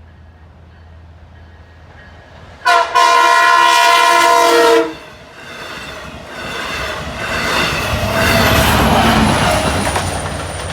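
Long Island Rail Road diesel-hauled express train sounding its horn once, a loud chord of about two seconds, as it approaches. Then the train rumbles past, growing louder toward the end, with a thin high whine slowly sliding down in pitch.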